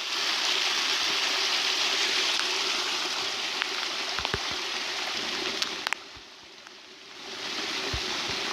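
Rainwater rushing down a flooded mountain trail, a steady rush of runoff that dips quieter for about a second around six seconds in, then comes back. A few soft low thumps sound under it.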